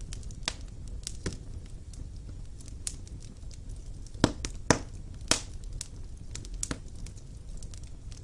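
Wood fire crackling in a fireplace: irregular sharp pops over a low steady rumble, with three louder pops close together about halfway through.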